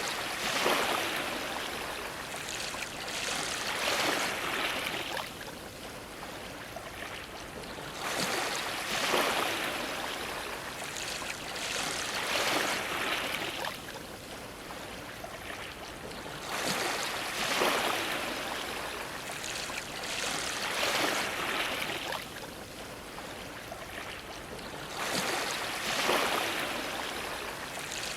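Ocean waves washing against a dock: splashing, rushing water that surges up and falls away about every eight seconds, four surges in all.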